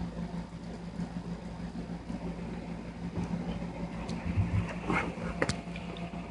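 A steady low hum, with a few short clicks and knocks about five seconds in; the dog is not heard.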